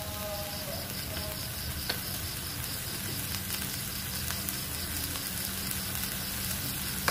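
Fried instant noodles sizzling steadily in a hot wok as kecap (sweet soy sauce) is poured over them. A few faint clicks come through the frying.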